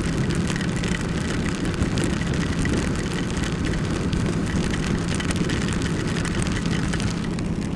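Steady riding noise from a Ducati XDiavel: its Testastretta DVT V-twin engine runs at an even pace under a constant rush of wind and heavy rain hitting the rider and microphone.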